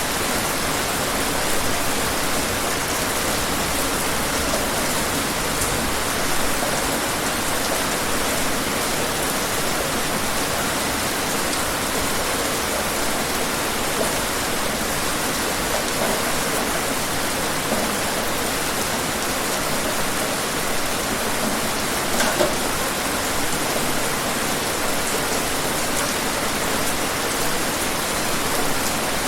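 Steady, heavy rain falling, a dense even hiss with scattered individual drop ticks and a few sharper drops about 22 seconds in.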